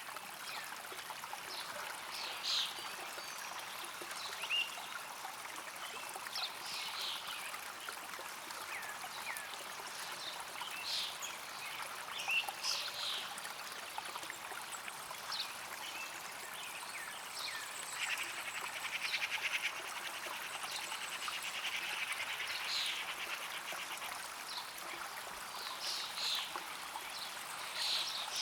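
Flowing stream water with birds chirping now and then. About two-thirds of the way through, a fast trill runs for several seconds.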